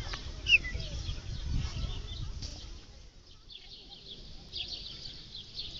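Small birds chirping: many short, high chirps, thickening into a quick run of calls near the end, over a low rumble in the first half.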